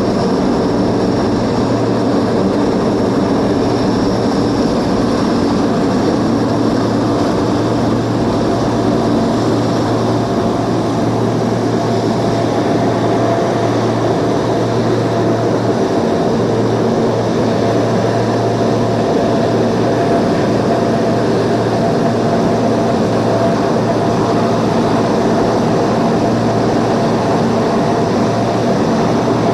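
Aircraft engines running steadily: a loud, even roar with a constant low hum and a fixed higher whine that neither rises nor falls.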